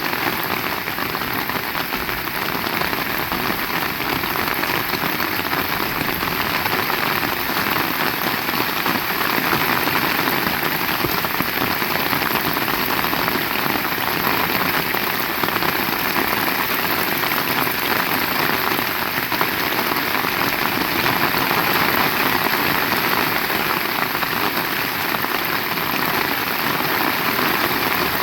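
Heavy rain falling, a steady dense hiss of drops striking surfaces.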